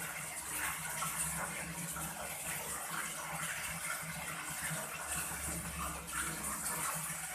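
Steady running and splashing water as biawan fish are washed during cleaning, with a low hum underneath.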